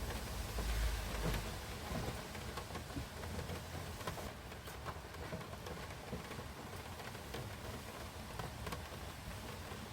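Rain falling steadily, with scattered drops ticking. A low rumble in the first second or so.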